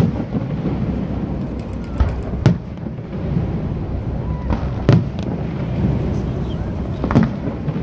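Aerial firework shells bursting: four booms, two close together about two seconds in, one near the middle and one near the end, over a steady low rumble.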